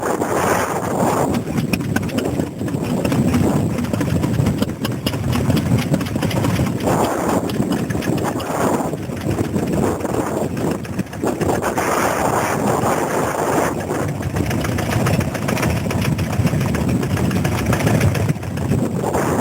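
Vintage stationary engine running steadily, a quick, even beat of firing strokes.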